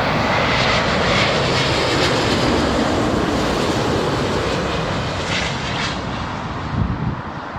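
Jet airliner on final approach passing low overhead: a loud rush of engine noise with a faint high whine in the first second or so, easing off over the last couple of seconds as it moves away.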